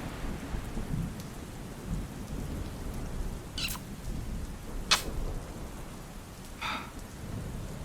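Steady rain, with three short, sharp kissing sounds (lip smacks) in the middle and latter part.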